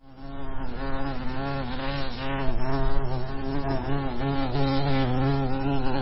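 Honey bees buzzing: a steady hum that wavers slightly in pitch, swelling in over the first half second.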